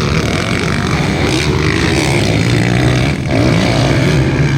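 Motocross dirt bike engines running and revving, with the pitch rising and falling as the riders race.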